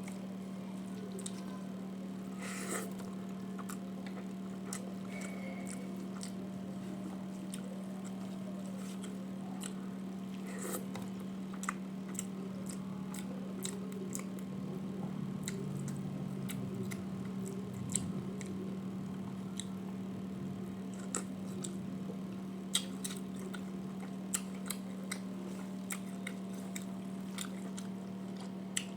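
A person chewing and eating a rice meal, with many small scattered clicks and soft wet mouth sounds, over a steady low hum.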